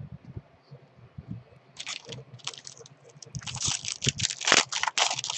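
Plastic-foil wrapper of a baseball card pack crinkling and tearing as it is opened. It starts about two seconds in and grows into a dense crackle.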